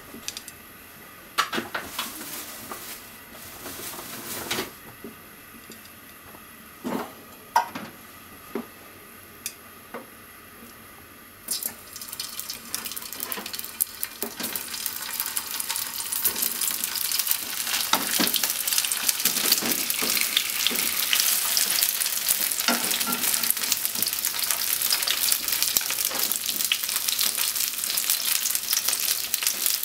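Cubes of atsuage (thick deep-fried tofu) going into hot oil in a nonstick frying pan. A few sharp knocks sound in the first third, then sizzling starts abruptly and builds to a steady loud frying sizzle as more pieces go in and are turned, with small clicks of the pieces and utensil against the pan.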